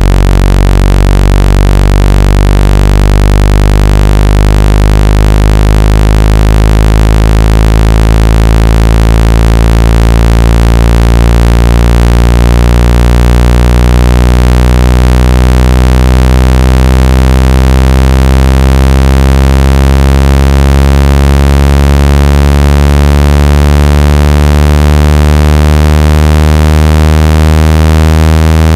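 Loud, low synthetic buzzing tone, rich in overtones, with its pitch slowly rising: a water-ejection sound played through a phone speaker to vibrate trapped water out of it.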